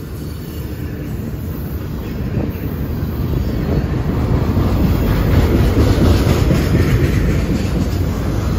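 CSX double-stack intermodal freight train passing: steady rumble and clatter of steel wheels on the rails as the container-laden well cars roll by, growing louder through the first half.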